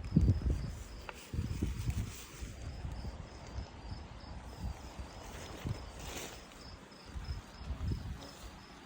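An insect, likely a cricket, chirping in short, evenly spaced high pulses at about three a second. Irregular low rumbles and thumps sound over it and are loudest at the start.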